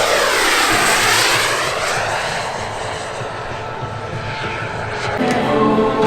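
A model aircraft flying past, its engine sound sweeping as it goes by. Music starts up about five seconds in.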